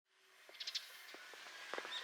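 Small birds chirping over quiet outdoor ambience, fading in from silence: a quick cluster of high chirps about half a second in, and a swooping call near the end.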